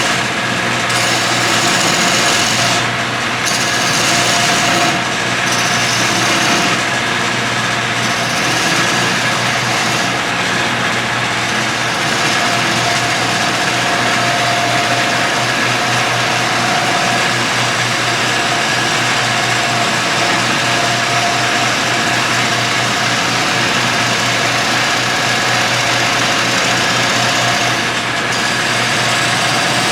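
Wood lathe running steadily while a turning tool cuts into the spinning burl wood bowl, hollowing its inside. The cutting noise breaks off briefly several times in the first ten seconds or so and once near the end, as the tool lifts from the wood.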